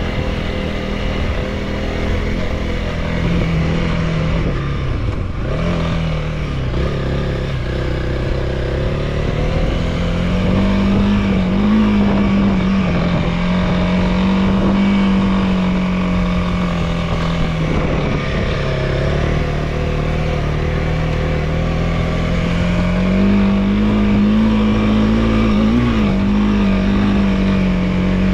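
Honda CRF300L's single-cylinder four-stroke engine running while the bike is ridden. The engine note rises and falls repeatedly with throttle and gear changes, dipping about five seconds in and again past halfway.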